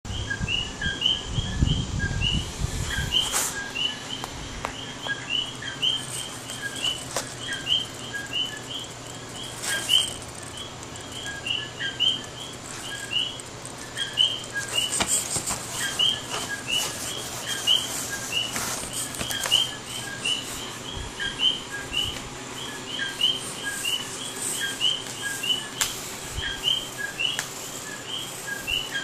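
A small bird chirping over and over, two to three short high chirps a second, with a few sharp handling clicks and a low rumble in the first few seconds.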